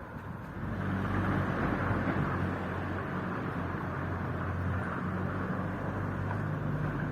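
A motor vehicle's engine running close by, growing louder about a second in and then holding a steady low hum.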